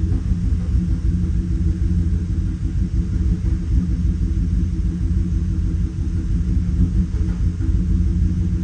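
2018 Chevrolet Silverado engine idling with a steady low rumble while misfiring: the scan tool reports a misfire on cylinder 3, and the mechanic thinks cylinder 6 may also be involved.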